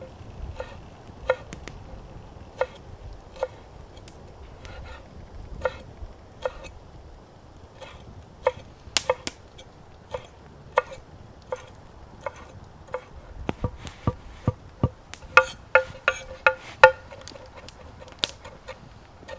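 Kitchen knife chopping on a wooden cutting board: single strokes at an irregular, unhurried pace, then a quicker run of strokes near the end.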